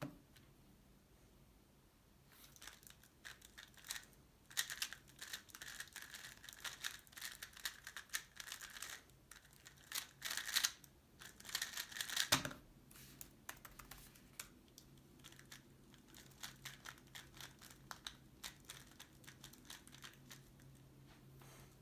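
Tornado V3 Pioneer 3x3 speedcube being turned fast for about ten seconds, a dense clatter of plastic layer turns that stops sharply about twelve seconds in, the length of one speedsolve. Lighter, sparser turning clicks follow.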